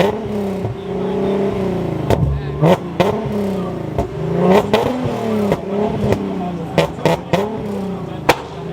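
Car engine revved over and over, its pitch rising and falling again and again, with many sharp cracks scattered through it.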